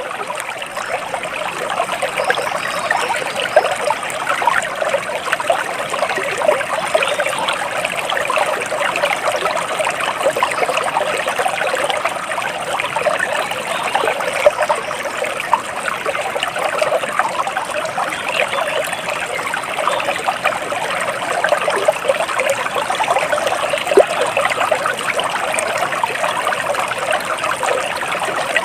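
Flowing water trickling and babbling steadily, like a small stream.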